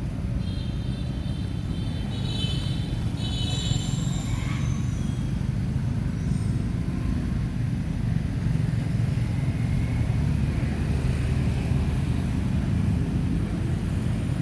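Steady low rumble, with several short high-pitched chirps in the first few seconds.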